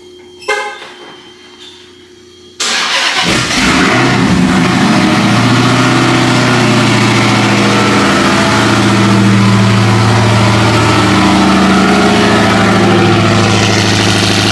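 Dodge Charger's supercharged HEMI V8, built to Demon spec at about 1,000 hp, starting up about two and a half seconds in with a sudden loud catch, then settling into a steady, loud idle.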